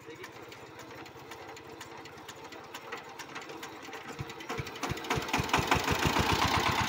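Single-cylinder Changfa-type diesel engine of a bhutbhuti motor van chugging with an even beat. About four seconds in, the beat speeds up and grows much louder as the engine is revved.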